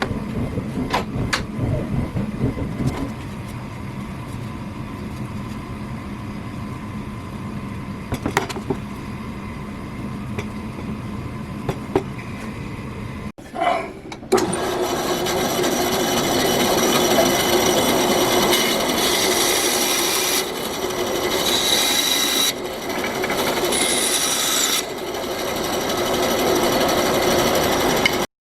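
Workshop tool work: about thirteen seconds of quieter rubbing with a few sharp taps, then, after a break, a louder power tool running steadily with a whine. It stops abruptly near the end.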